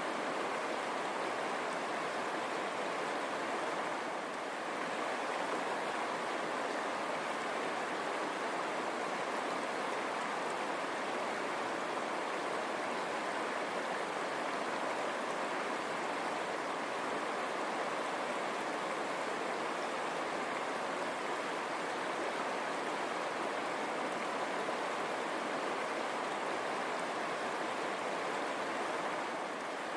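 River water running and rushing over rocks: a steady, even rushing.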